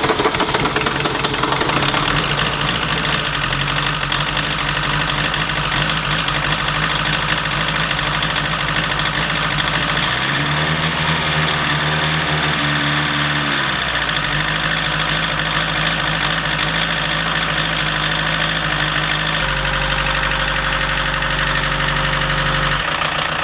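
A 1.6-litre Volkswagen diesel engine idling steadily in its first run after being swapped into a 1980 Rabbit. About ten seconds in it is revved once, rising and settling back over a few seconds.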